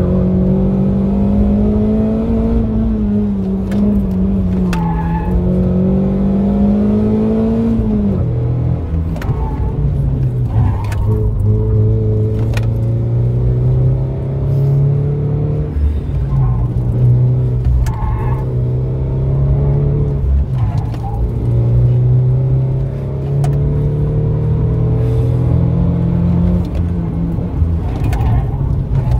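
Fiat Punto HGT engine heard from inside the cabin under hard driving, the revs climbing and sagging with the throttle. The pitch drops sharply about eight seconds in, then holds lower with repeated rises and falls.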